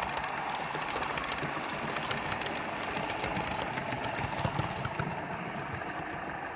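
Model diesel locomotive's sound decoder playing a steady engine sound, with quick light clicking from wheels running over the model track.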